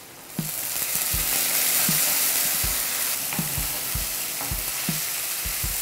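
Chopped tomatoes dropped into hot oil with onions and green chillies in a non-stick kadai, setting off a sizzle that starts suddenly about half a second in and holds steady. A wooden spatula stirs them, knocking against the pan now and then.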